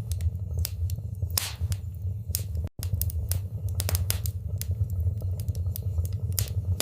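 Wood fire burning in a fireplace: a steady low rumble of flames with frequent sharp crackles and pops from the burning wood. The sound cuts out for a split second just under three seconds in.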